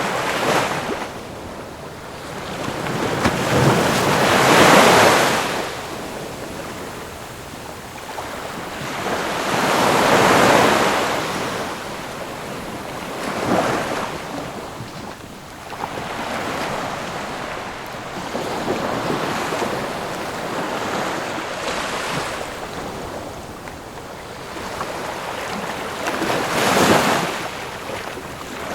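Ocean waves breaking and washing on a shore, in slow surges every few seconds; the biggest crests come about five, ten and twenty-seven seconds in.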